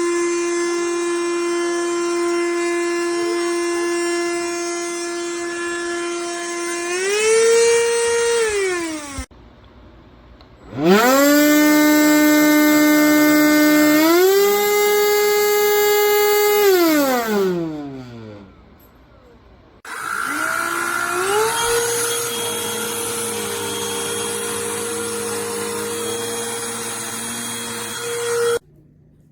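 Cordless handheld vacuum motor running with a high whine, stepping up in pitch, then switched off and winding down; it is started again twice, ramping up each time, and the last run stops abruptly near the end.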